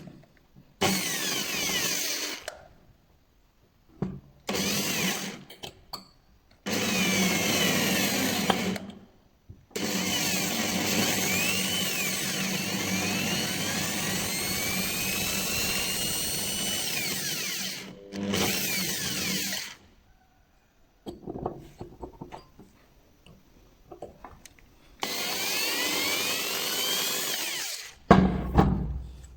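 Electric drill with a small bit, running in repeated bursts that stop and start as it drills out a broken bolt in a starter motor's brush holder cup. Its speed rises and falls within each run, and the longest run lasts about eight seconds. A few sharp knocks come near the end.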